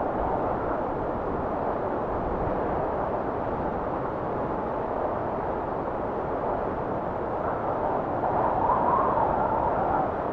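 Blizzard wind blowing steadily with a hissing rush, swelling into a louder gust near the end.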